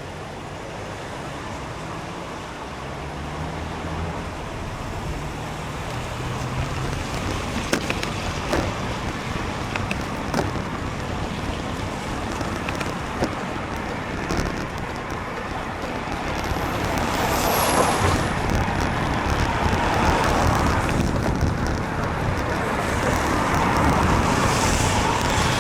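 Road traffic passing close by: a steady wash of car and tyre noise with a few sharp clicks, getting louder in the last third.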